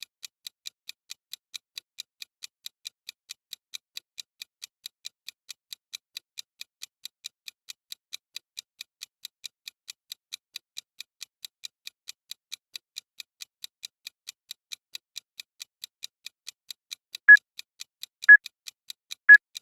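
Timer sound effect ticking evenly at about four ticks a second, high-pitched. Near the end, three louder short beeps a second apart count down the final seconds before the alarm.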